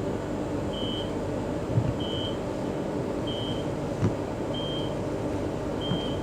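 A short, high electronic beep repeating about once every 1.3 s, five times, inside a Queensland Rail EMU carriage. Under it runs the train's steady low hum and rumble, with a couple of brief knocks.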